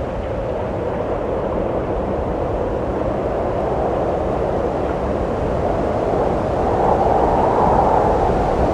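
Steady wind blowing, a continuous rushing noise that swells a little about six and a half seconds in.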